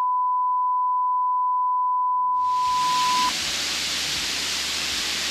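A single steady high-pitched beep tone that cuts off suddenly a little over three seconds in. From about two seconds in, the steady rushing noise of a waterfall comes in and carries on.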